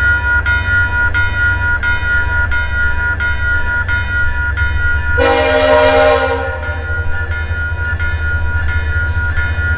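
Train rumbling steadily past, with a bell ringing about twice a second throughout. About five seconds in, a locomotive horn sounds one blast of just over a second.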